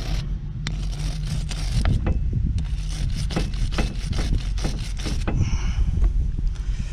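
Rapid, repeated scraping and scratching strokes of a hand tool against metal threads, trying to dislodge a stubborn chunk of old dried thread-locker that will not come off.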